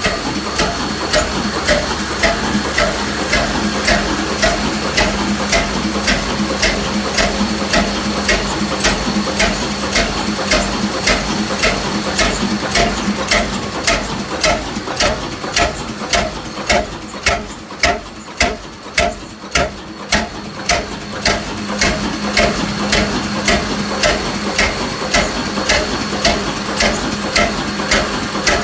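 Old 22 hp engine running slowly and steadily, with a sharp, regular mechanical knock about twice a second over a steady hum. For a few seconds past the middle the hum drops away and the knocks stand out more.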